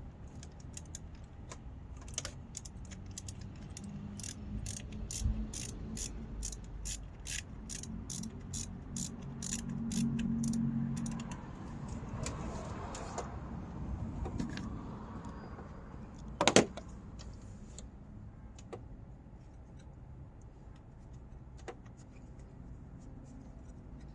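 Hand socket ratchet clicking in a quick, even run, about three clicks a second, as a 10 mm ignition coil bolt is backed out. A single sharp knock comes about two-thirds of the way through.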